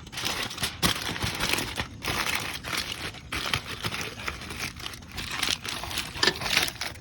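Heavy-duty aluminum foil crinkling and crackling as it is handled and shaped, in uneven stretches with brief pauses.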